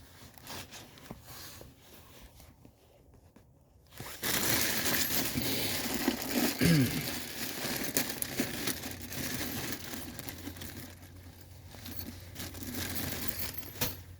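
Rustling and small metal clicks as a new brake kit's parts are handled and sorted, louder from about four seconds in.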